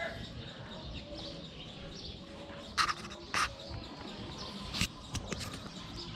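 A handful of short, sharp bird chirps over a steady background of farmyard noise.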